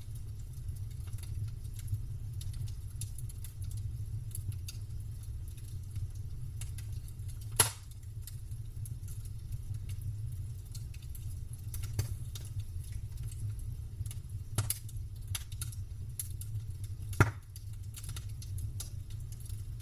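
Wood burning in a campfire, crackling with many small irregular snaps and two sharp, louder pops, one about a third of the way in and one near the end, over a steady low rumble.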